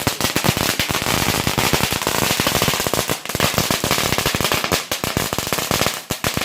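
Firecrackers going off in rapid, continuous succession, many sharp bangs a second, with a brief lull near the end before they carry on.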